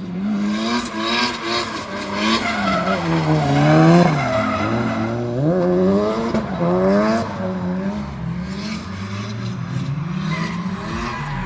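Straight-piped, turbocharged SR20DET four-cylinder revving hard while drifting, its note climbing and dropping again and again as the throttle is worked, with tyres skidding.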